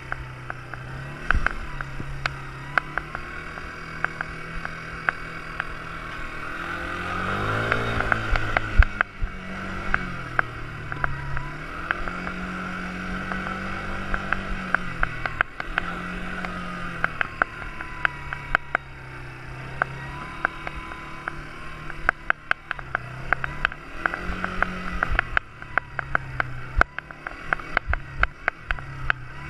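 Quad bike engine running, its pitch rising and falling over and over as the throttle opens and closes. Frequent sharp clicks and knocks run through it and grow more frequent in the last third.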